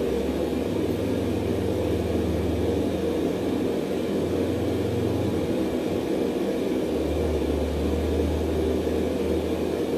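Forge running with a steady rushing roar while steel heats inside it. A low hum under it drops out for a moment past the middle and then returns.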